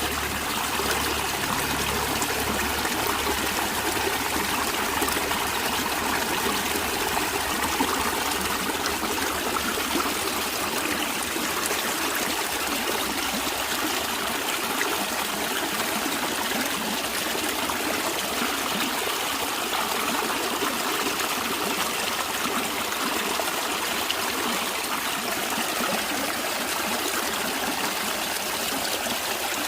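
A stream of water flowing and trickling steadily, a continuous rushing noise without breaks.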